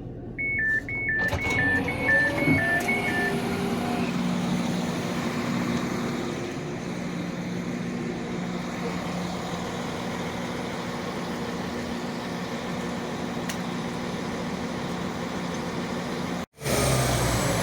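Train door-closing warning: a two-tone beep alternating high and low for about three seconds. Then the train's engine note rises as it pulls away and settles into a steady running hum with track rumble.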